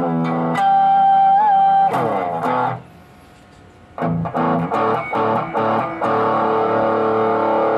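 Electric guitar played through a RAT-clone distortion pedal: a held note with a slight bend, a few quick notes, a pause of about a second, then short choppy chords that settle into a sustained chord.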